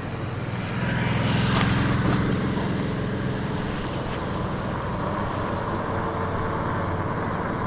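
Road traffic: a motor vehicle passes, loudest about two seconds in, over a steady hum of traffic.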